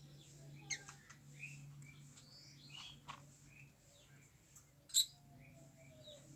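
Fischer's lovebird chirping in short, high calls, with a sharp tap about five seconds in over a low steady hum.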